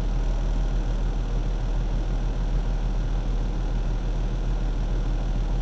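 Semi truck's diesel engine idling, a steady low hum, heard from inside the cab.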